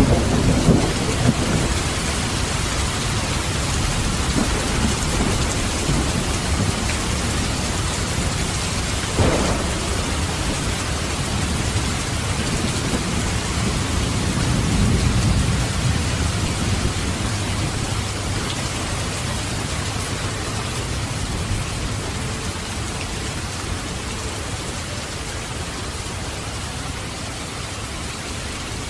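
Steady heavy rain with thunder: a low rumble dying away just after the start, a sharp crack about nine seconds in, and another rumble swelling around fifteen seconds before the storm slowly eases.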